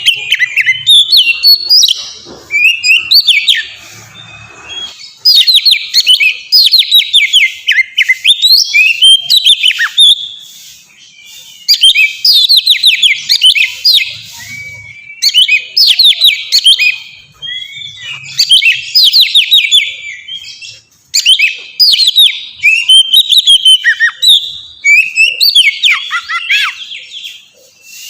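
Oriental magpie-robin (kacer) singing loudly: about ten bouts of quick, clear whistled notes that sweep downward, each bout a couple of seconds long, with short pauses between them.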